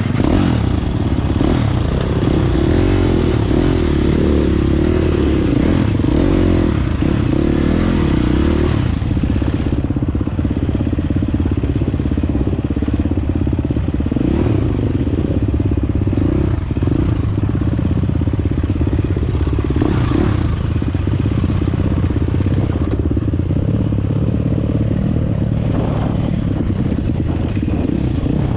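Dirt bike engine running while riding, its pitch rising and falling as the throttle is worked.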